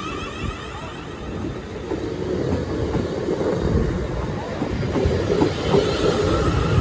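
South Western Railway Class 450 Desiro electric train pulling away over the level crossing, its wheels clattering over the rails with a steadily building rumble. The level crossing's wavering warning alarm dies away in the first half second.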